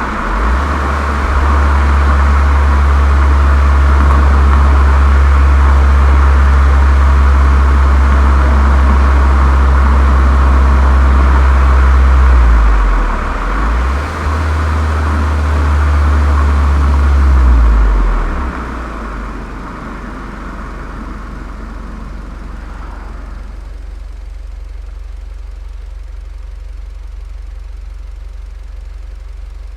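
Volkswagen Golf 7 GTI's turbocharged 2.0-litre four-cylinder through a Cox aftermarket muffler, running under way with a loud, steady low drone and road rush that dips briefly twice. About two-thirds in the engine note drops and the rush fades, leaving a steady low idle.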